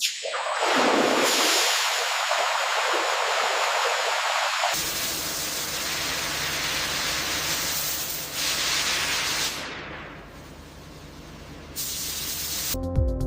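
Steady hissing spray. About five seconds in it turns into a fuller rushing noise with a low hum underneath, and music starts right at the end.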